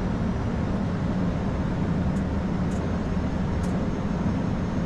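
Steady flight-deck noise of an Airbus A220-300 on short final: rushing airflow over a steady low hum from its Pratt & Whitney PW1500G geared turbofan engines.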